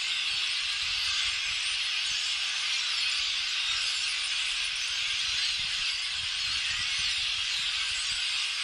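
A large flock of birds calling all at once: a loud, continuous chatter of countless overlapping high chirps and squeaks.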